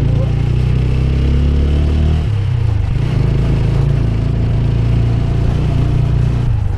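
Motorcycle engine running steadily while riding, its note shifting about two seconds in.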